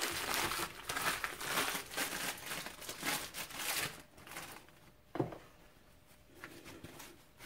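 Packaging crinkling and rustling for about four seconds as a new bearing is unwrapped, then quieter with a single sharp click about five seconds in.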